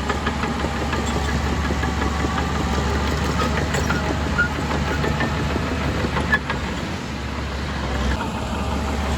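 Heavy diesel earthmoving machinery running with a steady low drone, with scattered clanks and knocks, the sharpest about four and six seconds in.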